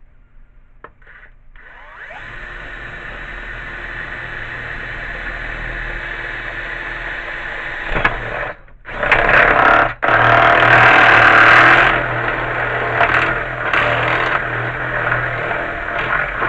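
Electric drill boring a hole through the two plates of a snow shovel. The motor starts about a second and a half in and runs steadily. It stops twice briefly past the middle, runs loudest just after the second stop, and cuts off at the end.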